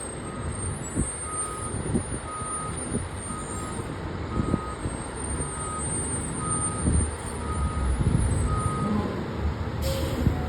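Fire truck reversing, its backup alarm beeping steadily about once every three-quarters of a second over the engine's rumble. The beeping stops about nine seconds in as the engine grows louder, and a short sharp noise comes near the end.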